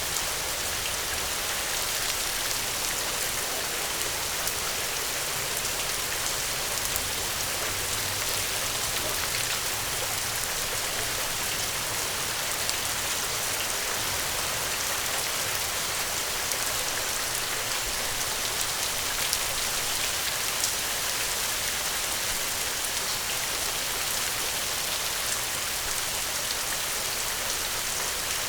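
Steady rain falling: a dense, even hiss of drops with a few scattered louder ticks.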